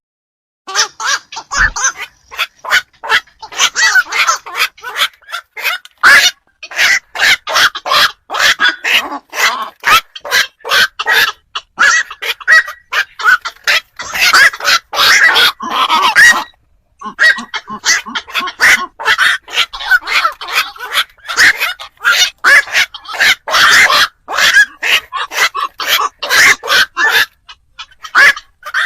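Black-crowned night herons calling: short calls several a second, many overlapping as from a group of birds, with brief breaks about six and sixteen seconds in.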